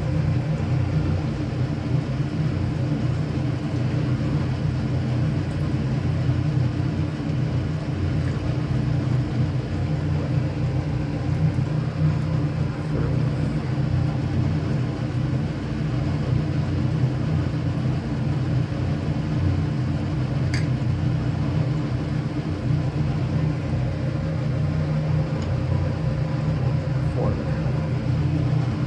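A steady low machine drone, like a running fan or motor, with one faint click about twenty seconds in.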